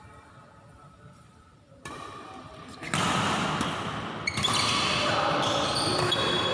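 A fading musical tone gives way to a quiet pause. About three seconds in, the echoing noise of a badminton game in a sports hall starts: thuds on the court with short high squeaks.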